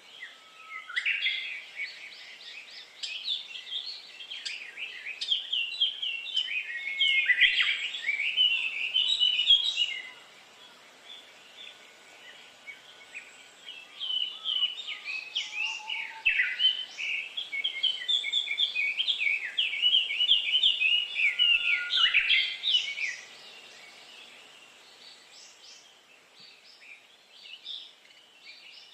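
A songbird singing in long bouts of rapid, varied chirps and twitters, two runs of about nine seconds each with a quieter pause between and a new bout starting near the end.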